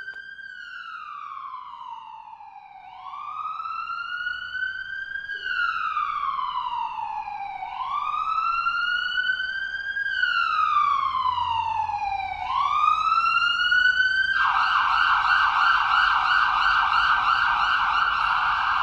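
Emergency vehicle siren in a slow wail, rising and falling about every five seconds and growing louder, then switching to a fast yelp about fourteen seconds in.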